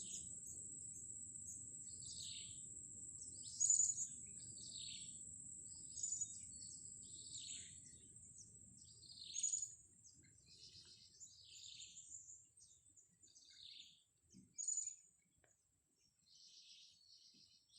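Blue-crowned hanging parrots (serindit) calling: a string of short, shrill, high-pitched calls that drop in pitch, the loudest about 4, 6, 9½ and 15 seconds in, over a steady high-pitched whine.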